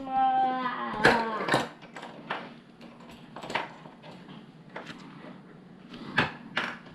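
Small plastic LEGO pieces clicking and knocking as they are handled, a few separate sharp clicks spaced irregularly. A child's voice holds a sung note briefly at the start.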